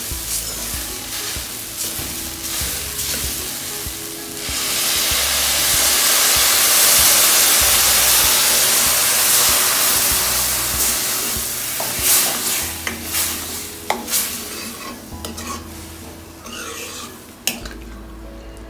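Spoon stirring grated carrots frying in ghee in an aluminium kadai, with sizzling and scraping against the pan. About four seconds in, a loud hiss of sizzling swells as milk goes into the hot pan and lasts several seconds, then dies down to stirring and spoon clicks.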